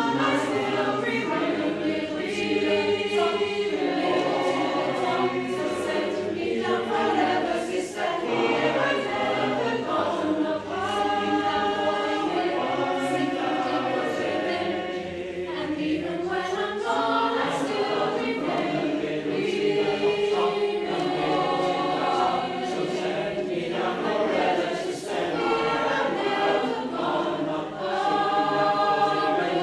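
A choir singing, several voices in harmony, with phrases swelling and easing every few seconds.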